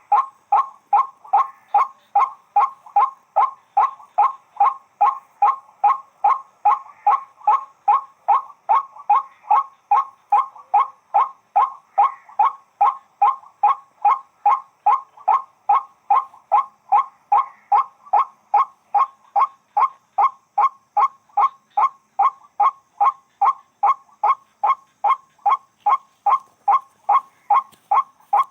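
White-breasted waterhen (wak-wak bird) calling: a short, harsh 'kwak' note repeated evenly and without pause, about two times a second.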